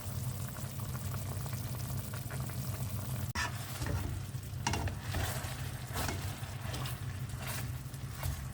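Thick, sugary Coca-Cola sauce sizzling and bubbling in a pan around chicken drumsticks as it reduces to a syrup. From about three seconds in come several stirring or turning strokes about a second apart, over a steady low hum.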